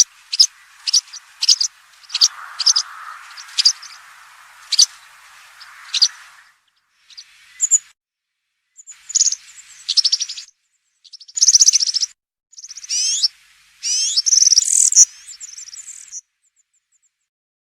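European serin singing. First a string of sharp, high single notes spaced about half a second apart, then several bursts of its rapid, high-pitched jingling song that stop about a second and a half before the end.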